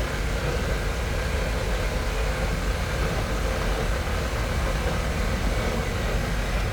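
Harley-Davidson Pan America's 1250 V-twin engine running steadily at cruise, mixed with heavy wind rush on a helmet-mounted microphone.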